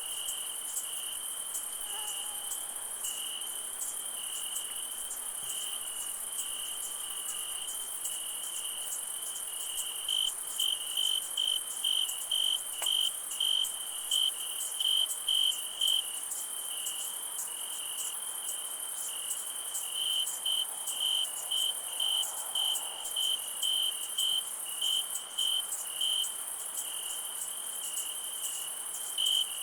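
Night chorus of crickets: a steady high-pitched insect trill with a constant lower chirping tone. About a third of the way in, one louder cricket begins chirping at about two chirps a second, in runs broken by short pauses.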